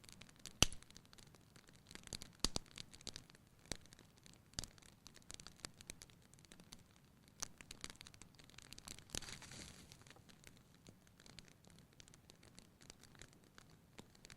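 Wood fire in a fireplace crackling: irregular sharp pops and snaps, the loudest about half a second in, with a brief hiss about two-thirds of the way through.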